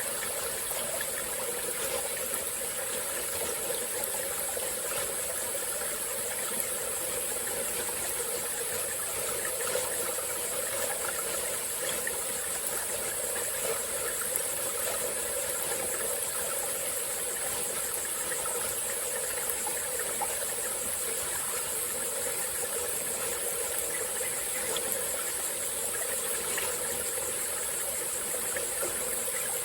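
Small forest stream flowing steadily, with a continuous high-pitched insect chorus over the running water.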